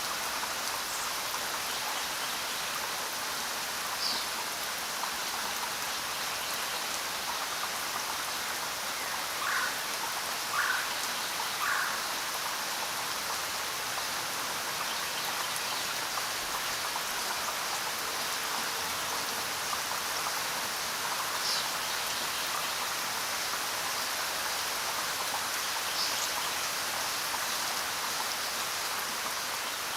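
Steady rain falling, an even hiss with no lulls. A few brief, faint higher sounds stand out, three of them about a second apart near the middle.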